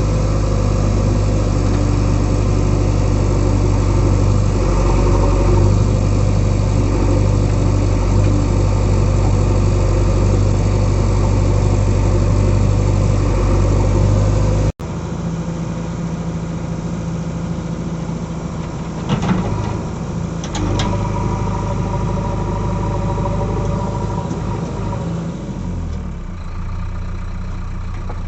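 JCB 3DX backhoe loader's diesel engine running steadily and loud. Halfway through the sound cuts off abruptly, then the engine is heard again, quieter, with a few short metallic knocks.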